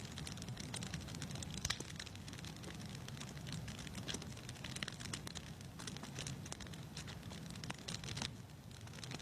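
Wood fire crackling in a fireplace: a steady low rumble with frequent irregular sharp crackles and pops.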